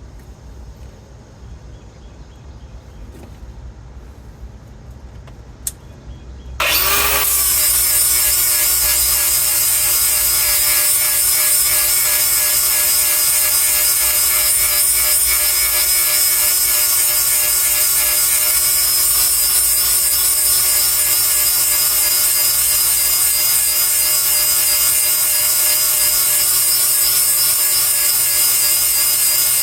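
A grinder used to sharpen Bandit Beast 4680 grinder teeth starts abruptly about a quarter of the way in and runs steadily, a high whine over a harsh grinding hiss.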